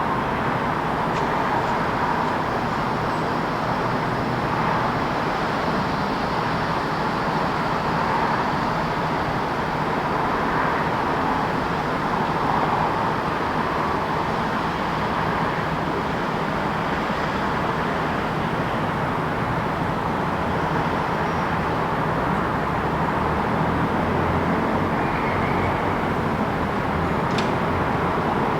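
Steady city road traffic noise: a continuous, even wash of passing cars and other vehicles.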